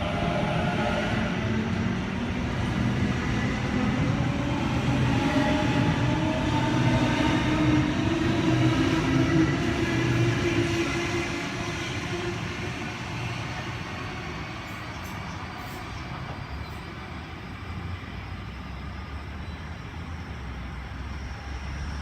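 Sydney Trains Waratah A-set electric train pulling into the platform, its traction motor whine falling in pitch as it slows. It quietens after about twelve seconds to a steady low hum as it comes to a stand.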